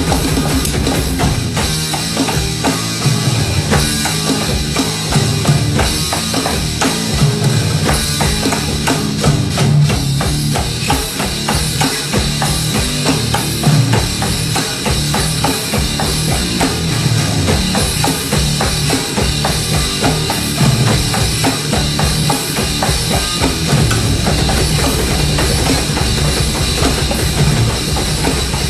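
Live band playing a heavy passage, with a busy drum kit driving it: bass drum and snare hitting in quick succession over a dense wall of sound.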